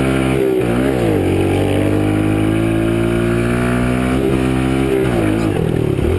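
Kawasaki KLX110 pit bike's single-cylinder four-stroke engine under riding, revving up and down through the first second, then holding a steady high pitch for about three seconds before easing off and picking up again near the end.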